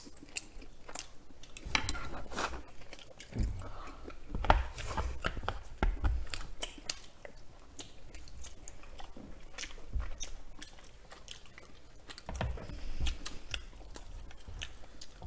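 Close-miked chewing and mouth sounds of eating creamy noodles and chicken, with many small clicks and occasional low thumps.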